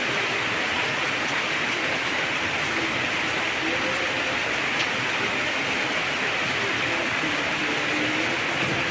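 Heavy rain pouring steadily in an even, unbroken hiss.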